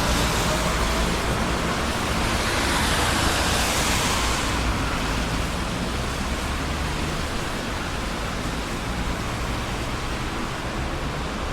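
Road traffic on a busy city street: a steady rush of tyre and engine noise, with a vehicle hissing past in the first few seconds before the sound settles lower.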